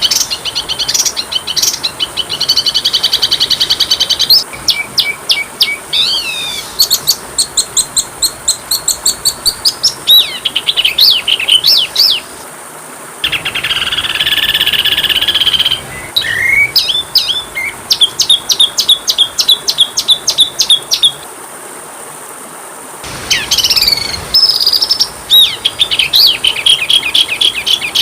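Oriental magpie-robin (kacer) song: rapid, varied runs of chirps, trills and whistles broken by short pauses, over a faint steady high whine.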